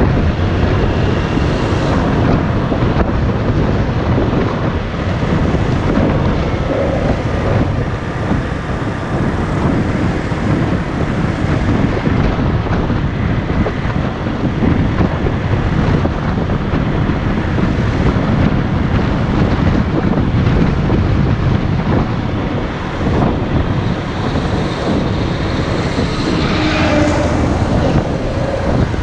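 Wind rushing over the microphone on a moving motorcycle, with the engine running underneath; the engine's pitch shifts briefly near the end.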